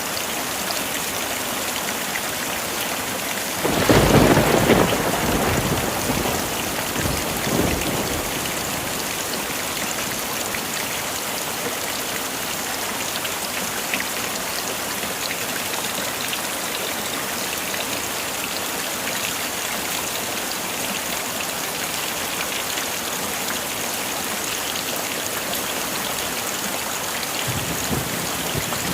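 Steady heavy rain falling, with a clap of thunder about four seconds in that rumbles away over the next few seconds, and a faint low rumble near the end.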